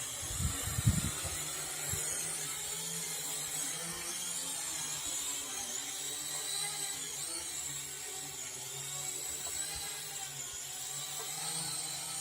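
Syma X8 quadcopter's small electric motors and propellers whining, the pitch wavering up and down as the motors keep correcting. A few low thumps come about half a second to one second in.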